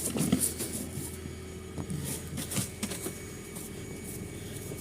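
Snow brush sweeping snow off a car in a series of irregular scratchy strokes, over a steady low hum.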